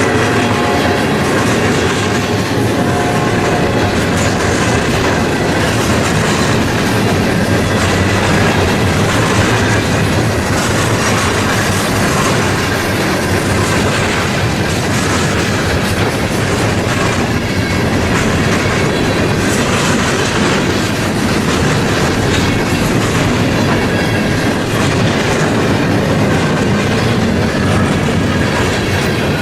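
Freight cars of a long freight train rolling steadily past, their wheels clattering over the rail joints with a continuous rumble.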